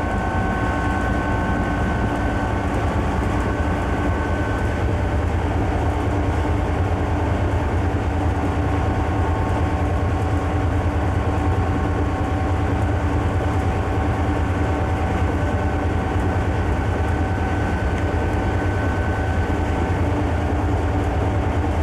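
Conrail diesel locomotive running steadily under way: a heavy, even low rumble with a few steady tones above it.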